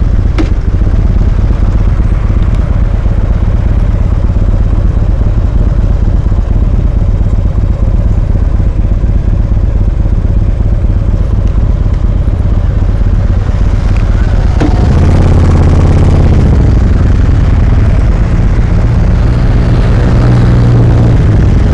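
Motorcycle engine running steadily, heard close up from a camera on the bike. About fifteen seconds in, after a sharp click, a deeper engine tone grows louder for a couple of seconds, and near the end an engine tone rises slightly.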